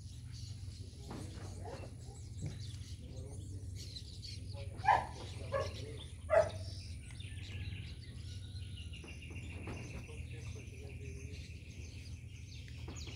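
Birds calling, with two loud, sharp calls about five and six and a half seconds in and a high, rapidly pulsing trill over the last few seconds, all above a steady low hum.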